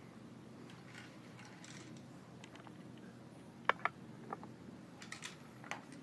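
Sharp mechanical clacks from a Glock 17 pistol being shot and worked: two close together a little past halfway, then a few fainter clicks.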